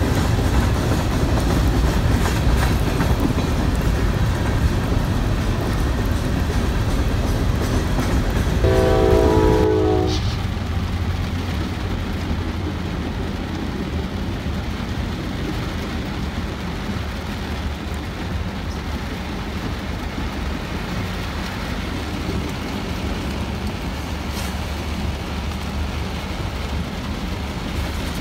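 A freight train of loaded hoppers rolling past, with the rumble and clack of its wheels, and a short train horn chord about nine seconds in. The sound then changes to a quieter, steadier rumble of another freight passing, heard muffled from inside a car.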